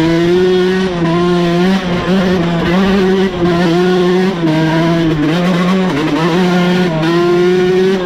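Dirt bike engine running under way, loud and close. Its revs step up and down every second or so as the throttle is worked.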